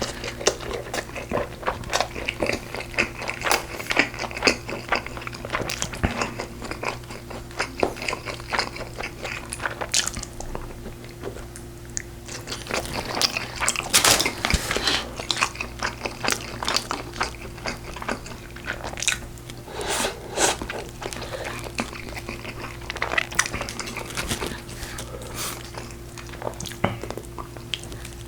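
Close-miked mukbang eating sounds: a person chewing and biting into braised pork ribs, with wet smacking and crunchy bites coming thick and irregular. A faint steady hum runs underneath.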